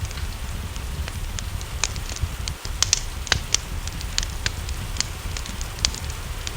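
Wood fire crackling, with irregular sharp pops over a steady low rumble, mixed with a soft steady hiss of rain.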